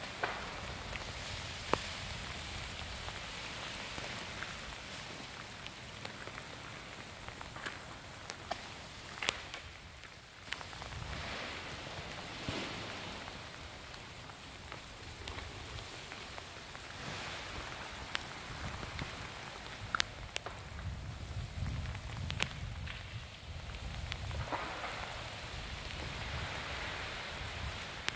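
Freezing rain falling steadily on ice-coated trees, with scattered sharp clicks and cracks, the loudest about nine seconds and twenty seconds in.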